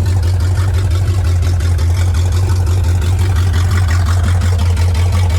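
1977 Chevy K10 pickup's V8 engine idling with a steady, even beat.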